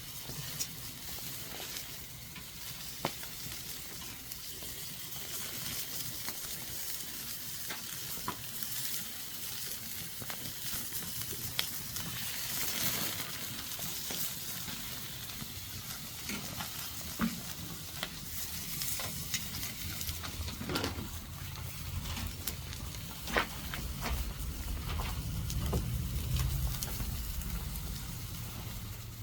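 Food sizzling as it fries, a steady hiss with scattered pops and crackles. A low rumble joins in for the last third.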